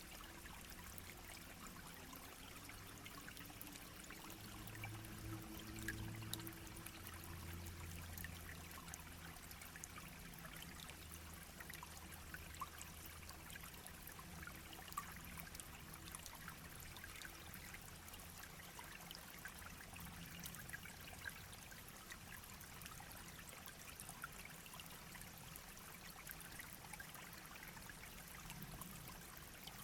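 Shallow brook babbling, a faint steady trickle with many small splashy ticks. A faint low hum lies underneath from about four to thirteen seconds in.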